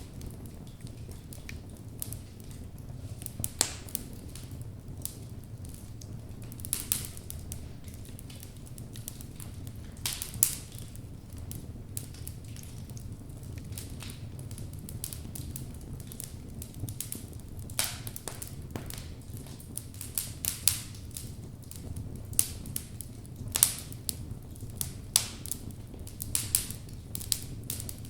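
Wood fire burning in a fireplace: a steady low rumble of the flames with irregular crackles and pops from the logs, a few sharper pops standing out.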